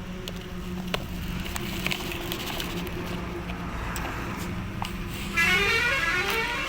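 Steady hum of a small toy vehicle's electric motor with scattered plastic clicks and knocks. About five seconds in, a loud electronic tune starts.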